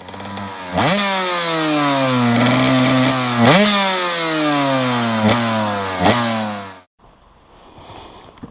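KTM 125 EXC two-stroke engine revving hard, its pitch jumping up sharply four times and falling away slowly after each jump. It cuts off suddenly near the end.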